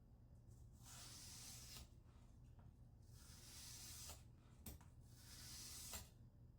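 Scissor blade drawn across a wet sharpening stone in a guided sharpener: three faint, hissing strokes about a second long each, roughly two seconds apart, with a light click between the second and third, as the edge is honed.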